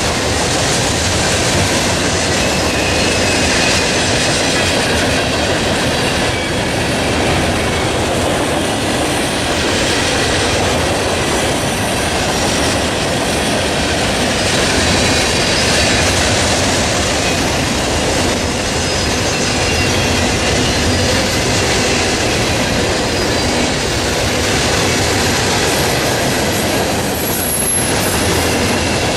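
A long freight train's cars rolling past at track speed, steel wheels clattering over the rail joints, with faint high wheel squeal coming and going.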